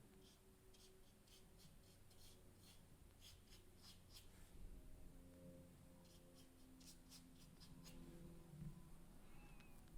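Faint strokes of a synthetic paintbrush on smooth paper, short dabs coming in quick runs of several a second, over a low room hum.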